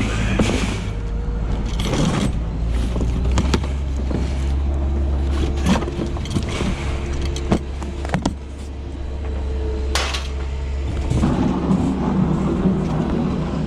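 A vehicle engine running steadily under scattered sharp metal clanks and knocks, typical of scrap metal being handled. About eleven seconds in the engine picks up.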